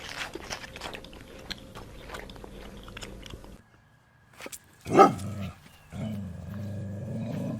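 An animal calling: one loud call about five seconds in, followed by a low, steady rumbling sound, after a stretch of quiet clicking and rustling that cuts off abruptly.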